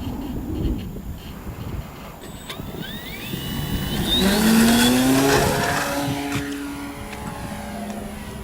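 Electric RC aerobatic plane (Sbach 342) flying past: its motor and propeller whine rises in pitch and loudness to a peak about halfway through, then drops in pitch and fades as it goes by. Gusty wind noise on the microphone at the start.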